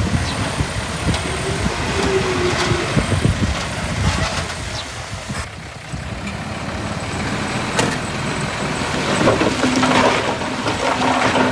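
Heavy diesel construction machinery running and working, with scattered knocks and rattles; the sound changes abruptly about halfway through.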